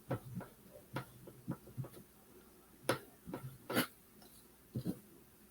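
Scattered light taps and clinks of small objects being handled on a work table, about eight of them, the loudest a pair near the middle.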